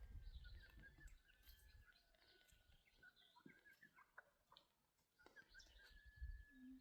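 Faint bird chirps over near silence: short, high whistled notes scattered throughout, with a low rumble at the start and again near the end.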